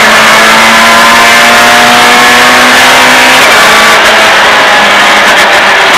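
Citroën Saxo Group A rally car's four-cylinder engine heard from inside the cabin, running flat out at a steady high pitch. About three and a half seconds in, the steady note breaks off and turns rougher as the throttle comes off for the next corner.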